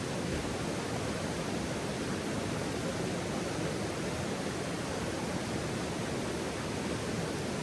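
Steady, even rushing noise with no distinct crackles or pops, like flowing water or a constant outdoor hiss.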